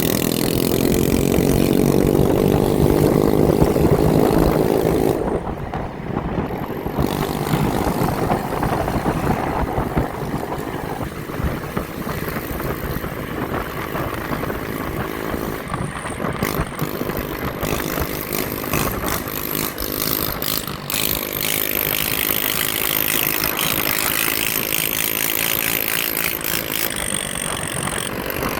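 Motorbike engines running alongside, one revving up with a rising pitch for the first few seconds, then engines droning under steady rushing noise.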